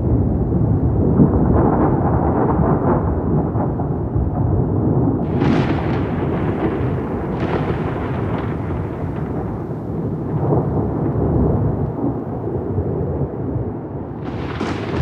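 Thunder rolling: a continuous deep rumble, with sharper crackling peals about five seconds in, again about two seconds later, and near the end.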